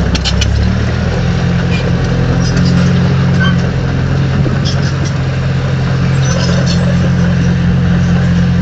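Diesel engine of a heavy earthmoving machine running steadily under load, its pitch shifting in the first second, with scattered short metallic clanks and clicks.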